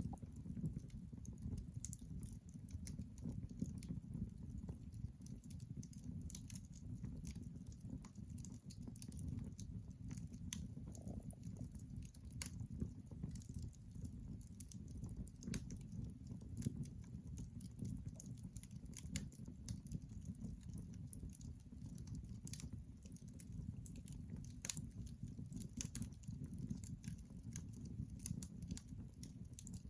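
Wood fire burning logs in a fireplace: a steady low rumble of the flames with irregular sharp crackles and pops scattered throughout.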